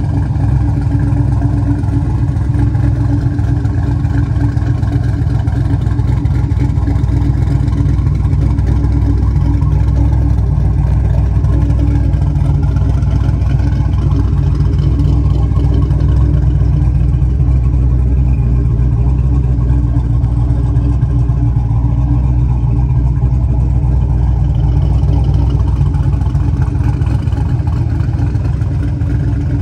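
Twin-turbo 5.3 LS V8 in a 1971 Chevrolet C-10 running steadily at idle, a constant deep engine rumble.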